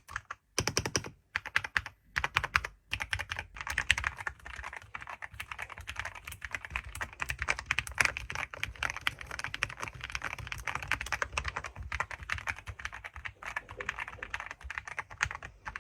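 Fast typing on a computer keyboard: a dense run of key clicks, with a few short pauses in the first three seconds.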